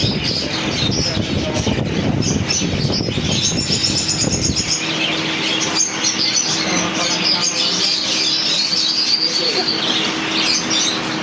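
Many caged songbirds chirping and trilling, with high twitters throughout and a longer trill about three seconds in. Background chatter and a low rumble accompany them for the first half; the rumble stops suddenly about halfway through, leaving a steady hum under the birds.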